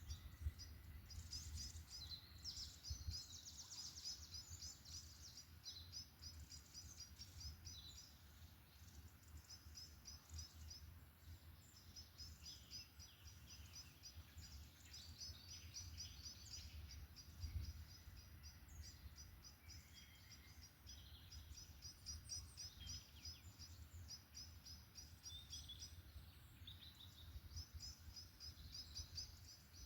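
Small songbirds singing in a forest, faint: quick series of high chirps repeated over and over, with other shorter calls between, over a steady low rumble.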